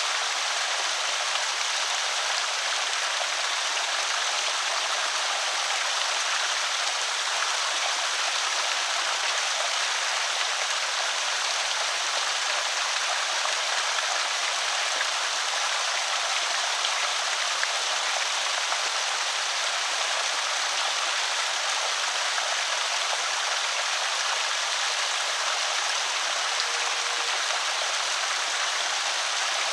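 Water pouring over a small creek spillway, a steady even rush with a bright hiss and no change in level.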